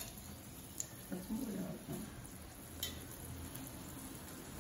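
Meat-filled maida pastries (irachi vada) sizzling steadily in hot oil in an iron kadai as they fry toward light brown, with two sharp ticks about a second and three seconds in.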